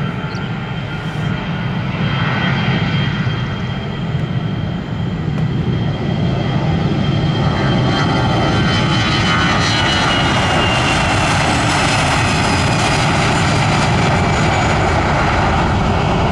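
Jet airliner passing close with its engines running loud. The noise builds over the first several seconds, then holds, with a high whine sliding slowly down in pitch near the middle.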